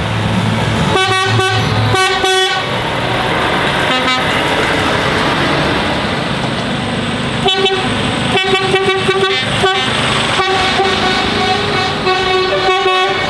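Truck horns sounding in repeated short blasts over the steady noise of passing lorries, one group about a second in and more from the middle to near the end.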